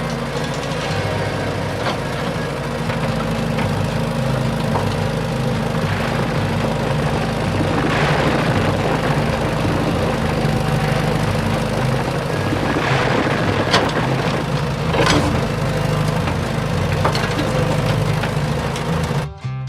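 An engine running steadily, with scattered clicks and clatters over it. It cuts off suddenly just before the end.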